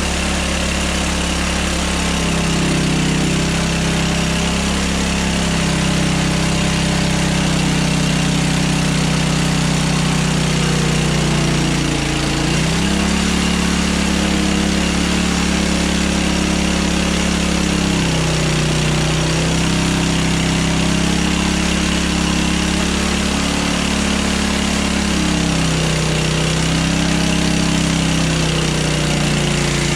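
Hudson Hunter portable bandsaw mill's engine running steadily. Its pitch dips briefly a few times, about twelve seconds in and then every six or seven seconds.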